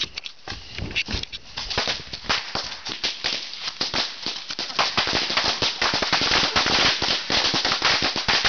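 A rapid, dense crackle of bottle rockets going off, many sharp pops close together, growing thicker and louder from about two seconds in.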